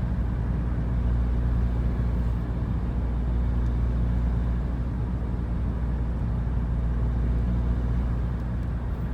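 Steady engine drone and road noise of a moving vehicle, with a constant low hum and no change in speed.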